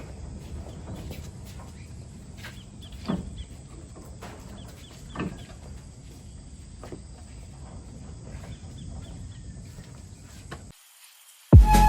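A low steady background rumble with scattered short, falling chirp-like calls and faint ticks. It cuts off suddenly near the end, and music starts just before the end.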